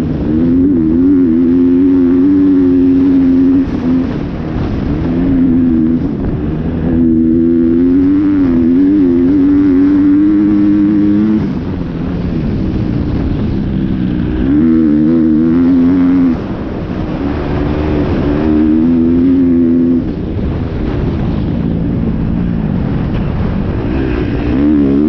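Dirt bike engine running hard at high revs, its pitch wavering, with short dips in level and pitch every few seconds before it pulls back up.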